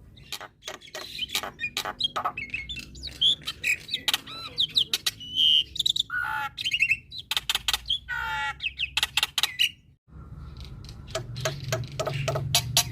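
Male black-winged myna (jalak putih) in full song: a fast, varied run of clicks, whistles and warbles packed with mimicked phrases, breaking off briefly about ten seconds in before resuming.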